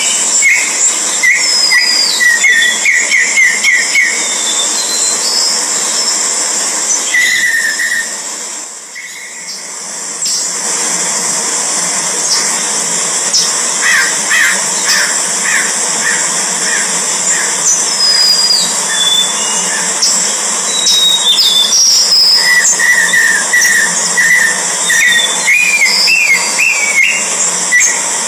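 Birds calling: runs of quick repeated chirps and short gliding whistled notes, over a steady high-pitched hiss.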